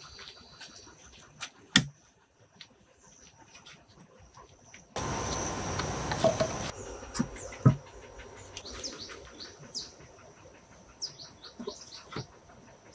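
Small birds chirping in short, quick falling notes, mostly in the second half, over a thin steady high whine. Several sharp knocks and taps stand out, the loudest about two seconds in and again near eight seconds.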